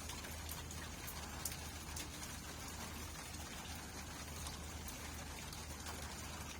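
Steady rain falling, with individual drops ticking sharply here and there over an even hiss, and a low steady hum underneath.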